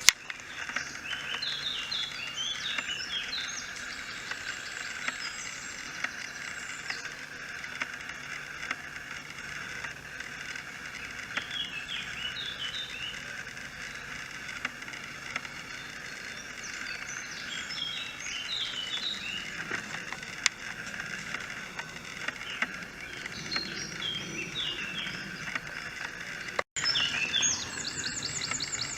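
Wild birds singing at a lagoon: recurring bursts of quick, high chirping phrases every several seconds over a steady background chorus. Near the end the sound drops out for an instant and a faster trilling song follows.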